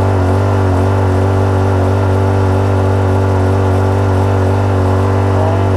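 Small petrol engine of a portable reverse-osmosis watermaker running steadily at constant speed, driving the high-pressure pump.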